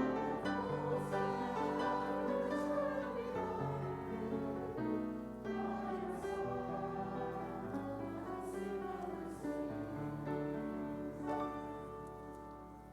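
A hymn sung by voices with piano accompaniment, in held chords, closing and dying away near the end.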